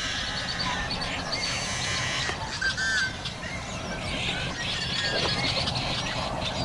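Duckling peeping: short, high chirps repeated at irregular intervals, over a steady low background noise.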